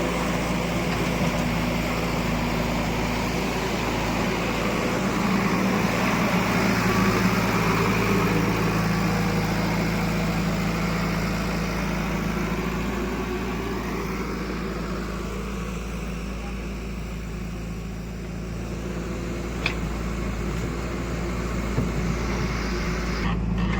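Diesel engine of a heavy machine running steadily. It grows louder about a third of the way in, then eases off.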